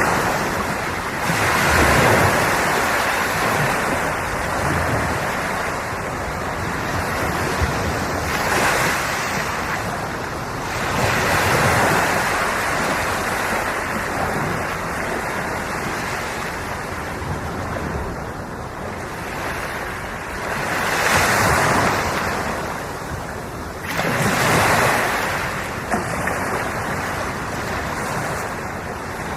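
Sea waves breaking and washing up the shore: a steady wash of surf that swells into a louder rush every few seconds as each wave comes in.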